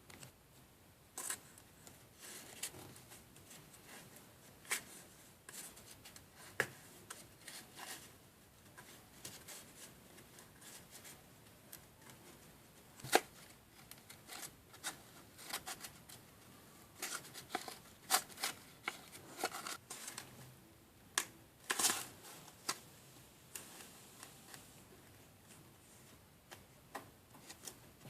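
Scattered light clicks, taps and rustles of small plastic pieces from a DIY candy kit being handled on a table. One sharper click comes near the middle, and a busier run of taps follows.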